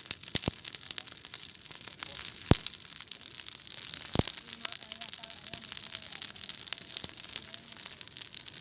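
Large wood campfire burning, crackling with a steady hiss of small snaps and a few sharp pops, the loudest about half a second, two and a half, and four seconds in.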